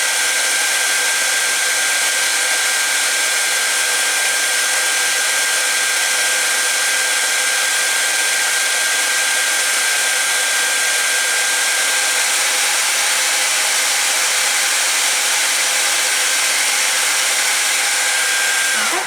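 Hairdryer running steadily: a loud rush of blowing air with a steady whine. It is switched off at the very end, the whine dropping in pitch as the motor winds down.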